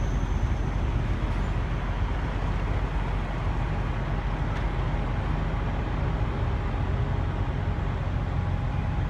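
Steady low rumble of truck engines, with a constant even hiss over it.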